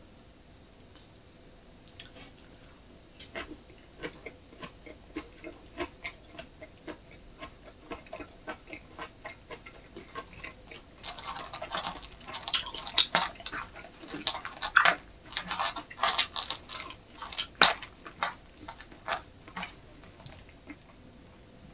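Close-miked mukbang chewing: wet mouth clicks and smacks at about one or two a second, growing denser and louder in the middle with a few sharp clicks, then thinning out near the end.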